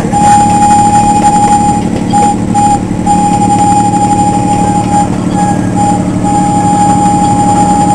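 Miniature train's horn sounded in a pattern of long and short blasts (long, two short, long, two short, long), one steady high note, over the train's engine running underneath.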